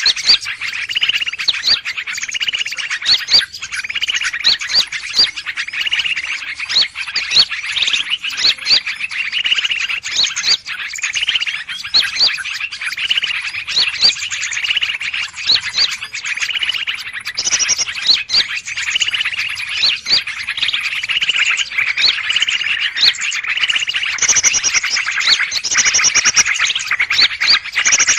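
Bird-trapping lure recording of a 'burung ribut' commotion: many birds chirping and calling at once in dense, overlapping chatter, played to draw in greater green leafbirds.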